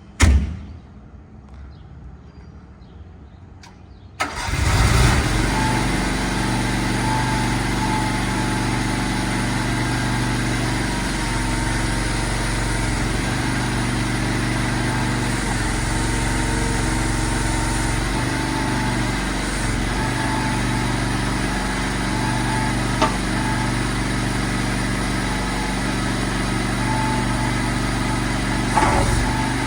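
A thump right at the start, then a CFG Industries MY50R mini excavator's engine starting about four seconds in and settling to a steady idle.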